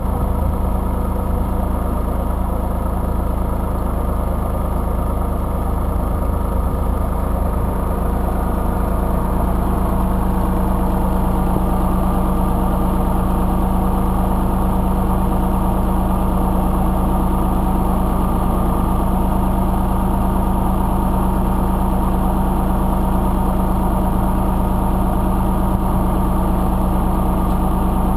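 IMT 2050 tractor's 55 hp diesel engine running at a steady speed, with an even, unchanging engine tone.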